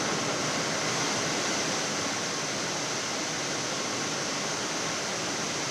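Steady rushing hiss of a Boeing 787 flight deck on final approach: airflow and air-conditioning noise, even and unchanging.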